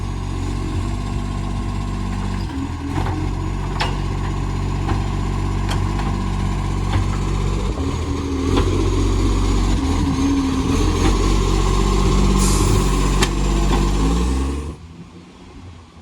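Garbage truck's diesel engine running hard under a loud exhaust leak, a steady high whine over it and a few sharp knocks, getting louder about halfway through. The sound drops away sharply near the end.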